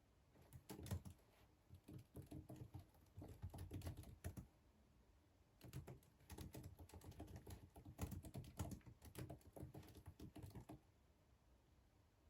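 Typing on a computer keyboard in two runs of quick key clicks, each about four to five seconds long, with a short pause between. The typing stops about eleven seconds in.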